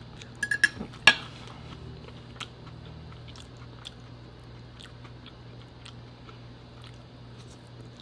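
Close-miked mouth sounds of a person eating a forkful of food: a few sharp clicks about half a second to a second in, the loudest just after one second, then quieter chewing with small scattered clicks.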